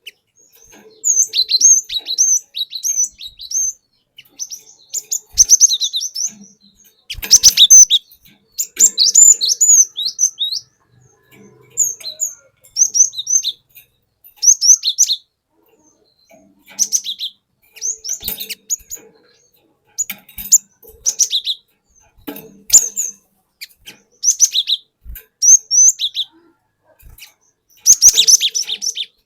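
Cinereous tit (glatik batu) singing: short phrases of rapid, high whistled notes that each sweep downward, repeated again and again with pauses of about a second between them. A few sharp clicks are mixed in.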